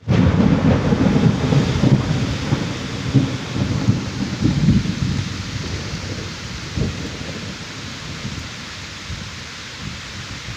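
Heavy monsoon rain pouring steadily, with a deep rumble that is loudest in the first half and dies away, and one more low thump about seven seconds in.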